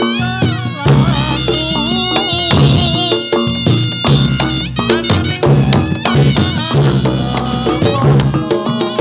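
Traditional Javanese reog-style ensemble accompanying a jathilan dance. Drums and struck gong-chime percussion play in a steady rhythm, under a wavering high melody line.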